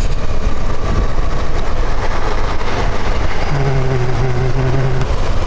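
Motorcycle riding along a road, with wind rushing loudly over the microphone and the engine running under it. A steady hum comes in about three and a half seconds in and stops about a second and a half later.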